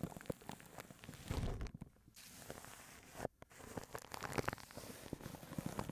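A brush scratching and sweeping over a microphone wrapped in plastic wrap: dense, uneven crackling and rustling, with a low thump about a second and a half in and two brief breaks.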